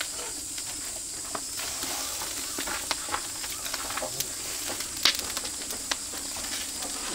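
Meat sizzling on a grill over an oak-wood fire, a steady high hiss with scattered sharp crackles and pops; the loudest pop comes about five seconds in.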